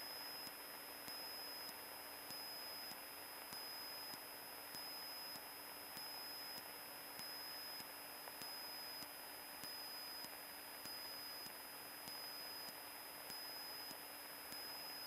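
Faint steady hiss of a radio audio feed between transmissions, with a thin high electronic whine and faint regular ticks.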